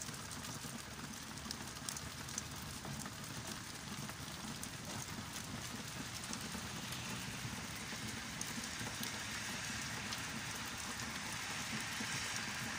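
Heavy rain falling steadily, with close drops ticking now and then. The hiss of the rain grows louder in the second half.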